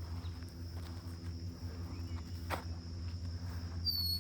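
Footsteps through grass over a steady high insect drone, with one short, slightly falling bird whistle near the end.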